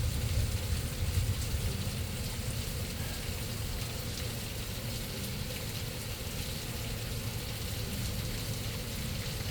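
Steady hiss of rain falling on a flooded street, with a low rumble that is strongest in the first second or so and then eases.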